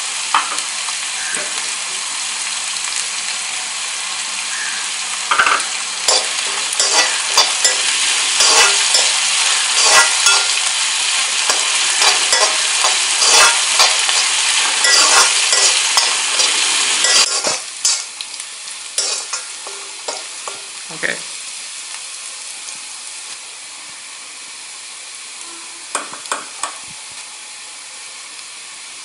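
Chopped onion, garlic and green chillies sizzling in hot oil in a metal kadai, stirred with a metal spatula that clicks and scrapes against the pan. The sizzle and clatter are loudest while stirring, then drop to a quieter steady sizzle about two-thirds of the way through, with a few more spatula clicks near the end.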